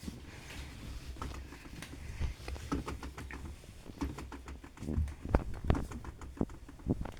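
LG washing machine drum turning a load of wet towels: irregular soft thuds and knocks over a low motor hum, with a few heavier thumps later on.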